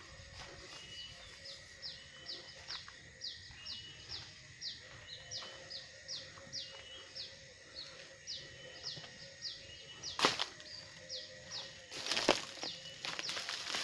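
A small bird calling over and over, a short high note falling in pitch about twice a second, over a faint steady high hum. Near the end come several loud dry crackling rustles.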